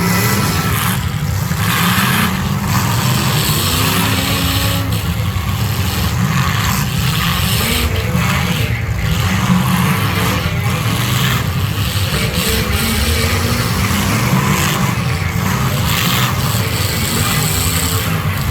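Demolition derby cars' engines running and revving, with scattered brief noises over a steady low engine sound.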